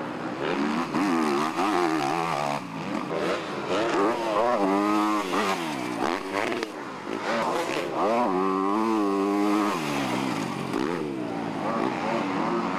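Motocross bike engines revving hard, pitch rising and falling as riders open and close the throttle and shift. Several bikes are heard, with the loudest held at high revs for a second or two about halfway through and again near eight seconds in.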